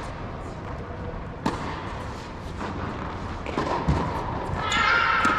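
Tennis ball being hit during a drill: one sharp racquet strike about one and a half seconds in, with a duller thud near the four-second mark and softer knocks in between.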